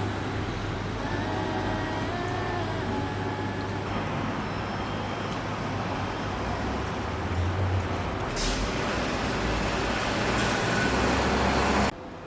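Road traffic noise: a steady rumble of passing vehicles with a brief hiss about eight seconds in, cutting off suddenly near the end.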